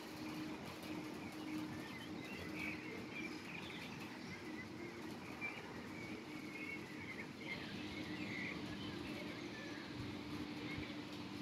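Small songbirds chirping and singing, over a steady low hum and an even background hiss that grows stronger about two-thirds of the way through.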